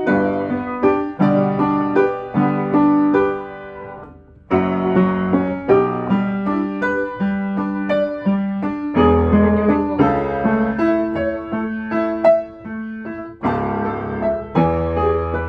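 Piano played slowly with finger legato, connected melody notes over sustained lower notes, aiming for a dark and heavy tone. The sound dies away about four seconds in before the next phrase starts, and deep bass notes join about nine seconds in and again near the end.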